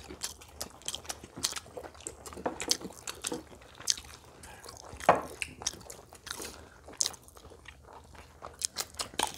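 Close-up crunching and chewing of fried food as several people eat, irregular crisp bites with the loudest crunch about five seconds in.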